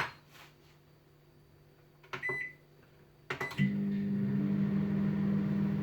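Microwave oven being set and started: a keypad beep about two seconds in, clicks and another beep a second later, then the oven starts up and runs with a steady low hum.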